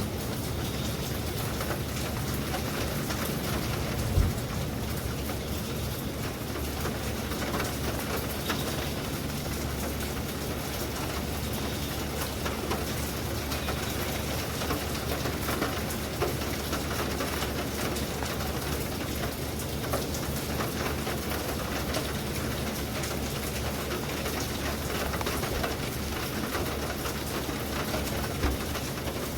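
Steady rain falling on a surface, with a continuous low rumble underneath and a few sharp knocks, the clearest about four seconds in and another near the end.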